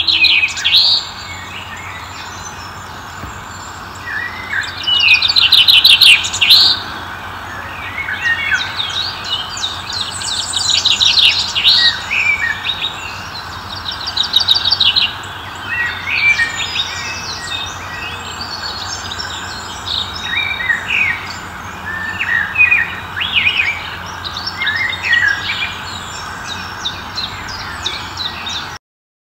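Several birds chirping and calling, with quick trilled phrases every second or two, loudest about five to six seconds in, over a steady background hiss.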